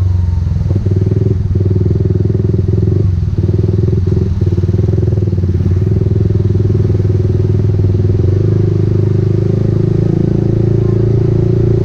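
Motorcycle engine running at a steady speed while riding, with a few brief dips in the engine note in the first few seconds.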